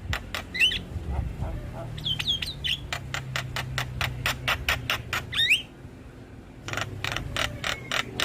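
Javan myna (jalak kebo) calling: harsh squawks and squeaky rising whistles, then a fast run of sharp clicking notes about five a second, a short pause about six seconds in, and more clicks. A steady low hum runs underneath.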